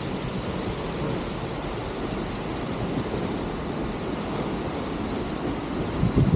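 Waterfall's steady rush of falling water, a constant low rumbling noise, with a brief louder low surge near the end.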